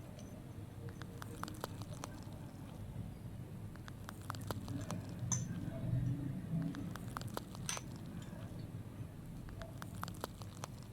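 Close-miked ASMR water sounds: scattered small drips and clicks over a low rumble, a little louder around the middle.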